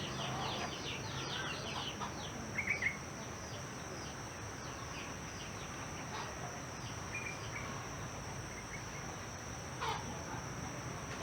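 Birds chirping over a steady high insect drone. A run of quick falling chirps comes in the first second or so, a short three-note call near three seconds, and a downward sweeping call near the end.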